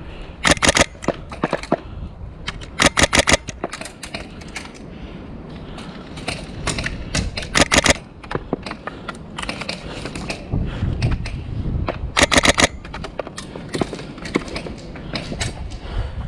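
An airsoft rifle firing four short bursts of four or five shots each, a rapid clatter at about ten shots a second. Fainter scattered clicks and low wind rumble run between the bursts.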